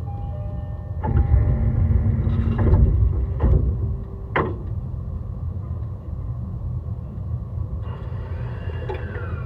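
E131 series electric train running, heard from on board: a steady low rumble of wheels on rail that grows louder about a second in, with three sharp knocks over rail joints or points. Near the end the Hitachi hybrid SiC traction inverter's whine comes in and falls in pitch as the train slows.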